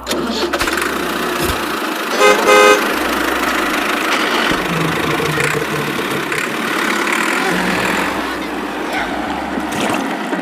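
Steady vehicle noise with a horn tooting twice in quick succession about two seconds in.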